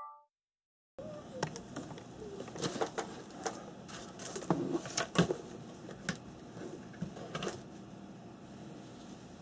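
Scattered light clicks, taps and rustles of small objects being handled on a tabletop. They start after about a second of dead silence and thin out towards the end.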